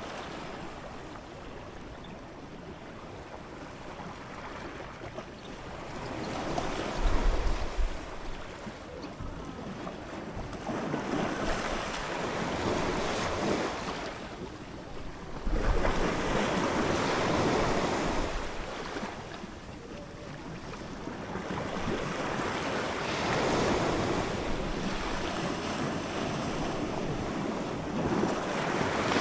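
Ocean waves breaking and washing in, the surf swelling and fading every few seconds. Two heavier waves break with a low thud, about 7 and 15 seconds in.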